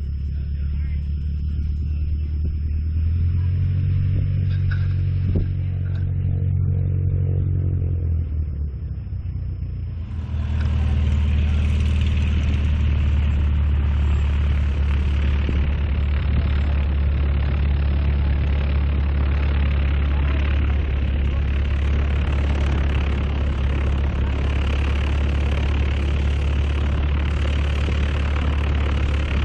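An engine running steadily with a low drone. It runs faster from about three seconds in, eases off near nine seconds, then runs louder and steadier with a rushing hiss from about ten seconds on.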